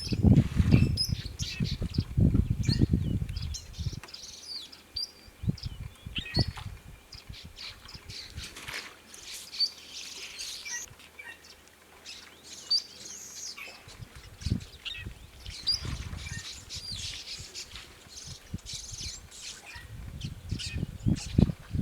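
Wild birds chirping and calling, many short high chirps and whistles overlapping throughout. Bursts of low rumbling noise at the start and again near the end.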